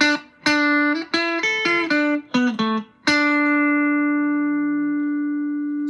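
Electric guitar played through a JHS Ross compressor pedal: a quick phrase of single plucked notes, then one note about three seconds in held long and even, fading only slowly under heavy compression sustain.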